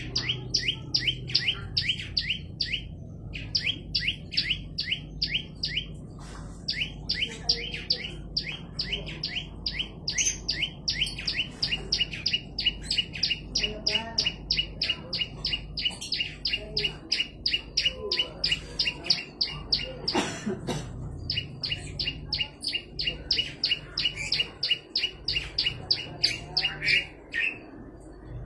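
A prenjak lumut singing continuously in a long, fast series of sharp repeated chirps, about four or five a second. The runs are broken by a few short pauses, and the song stops near the end.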